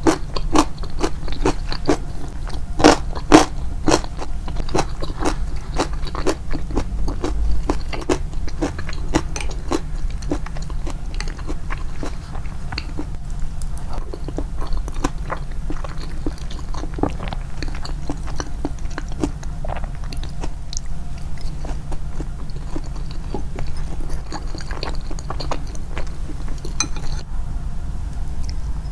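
Close-miked crunchy chewing of rice-bran pickled vegetables (nukazuke): a rapid run of crisp bites and crunches, loudest around three seconds in and thinning to softer chewing later, over a steady low hum.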